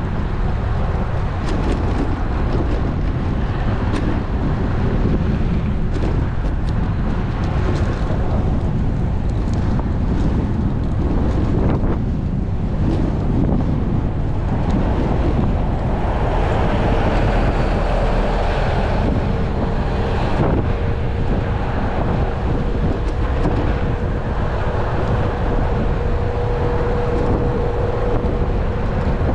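Wind buffeting an action camera's microphone on a moving road bike, a steady rushing noise mixed with road noise. A faint steady hum joins about halfway through.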